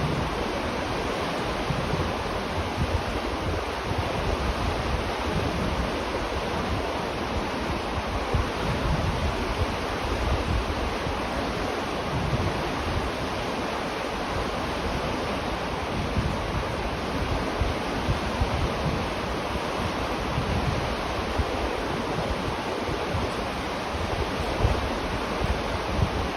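River water flowing, a steady rushing with an uneven low rumble beneath it.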